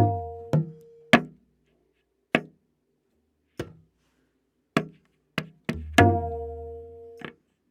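Tabla playing a slow vilambit ektaal theka, the dayan tuned to A# and ringing after its strokes. Single strokes fall a second or more apart, with a deep, sustained bayan bass stroke at the start and another just after six seconds that fades over about a second.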